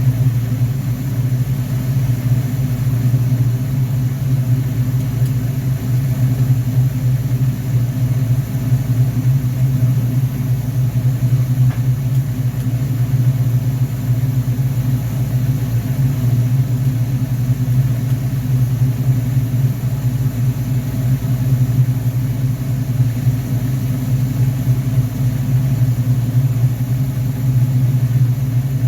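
Car engine idling steadily on a freshly rebuilt Rochester Quadrajet carburetor during its test run.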